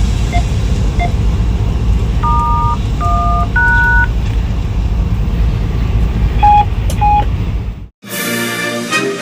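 Steady low rumble of a locomotive cab underway, with a string of short touch-tone beeps over it, like DTMF digits keyed on the cab radio: a few single beeps at the start, three two-tone pairs about two to four seconds in, and two more beeps near seven seconds. The cab sound cuts off suddenly about eight seconds in and orchestral music follows.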